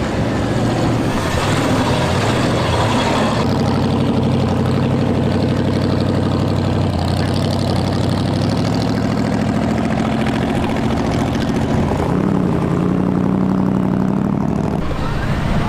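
Truck engines running at low speed, their steady hum shifting in pitch about three-quarters of the way through. A hiss of air sounds over the engines in the first few seconds.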